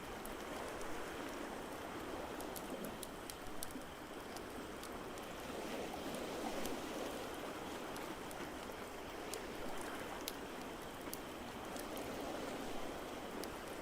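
Ocean surf washing steadily with slow, gentle swells, while a wood fire crackles over it with scattered sharp pops and snaps.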